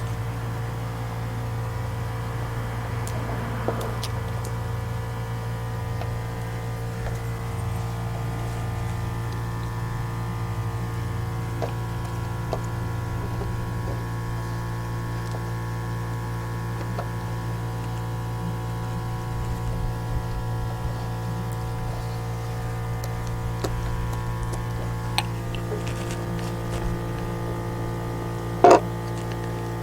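Steady machine hum made of several steady tones, with a few light ticks and one sharp click near the end.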